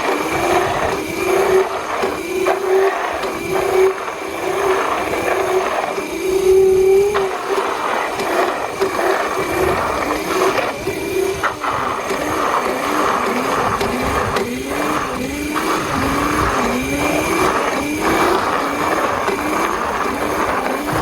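Razor MX350 electric dirt bike's motor whining under throttle with chain and tyre noise during a long wheelie, its pitch dipping and recovering over and over, more regularly in the second half.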